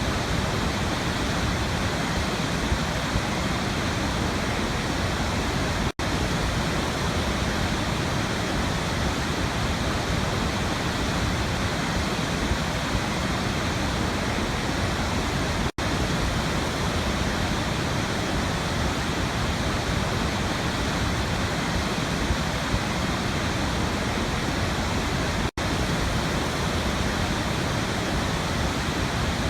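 Waterfall: a steady, even rush of falling water, broken three times by a split-second dropout, about ten seconds apart.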